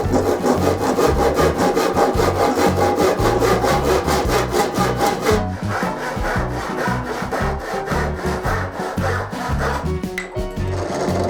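Wood being sawn by hand with quick, regular strokes.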